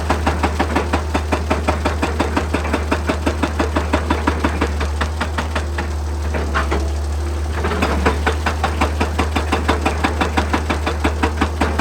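Hydraulic rock breaker on an excavator hammering rock in a fast, even run of blows over the excavator's steady engine hum. The blows stop for about two seconds midway, then start again, while the engine keeps running.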